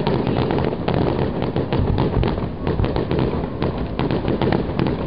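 Fireworks display: many aerial shells launching and bursting in quick succession, a dense, unbroken run of bangs and crackles.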